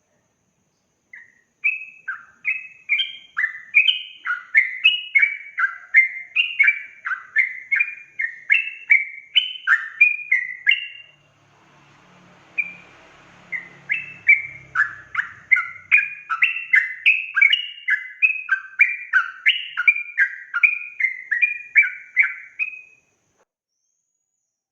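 Yellow-vented bulbul singing a fast rolling series of bubbly chirping notes, about two a second. The song pauses briefly about halfway, with a faint hiss and low rumble, then resumes and stops a little before the end.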